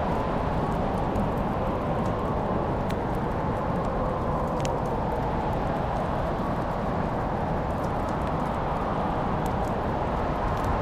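Fireplace fire burning with a steady low rushing and scattered sharp crackles and pops.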